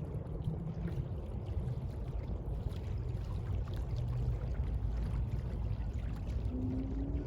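Sea water washing and lapping in a steady rush, heaviest in the low end.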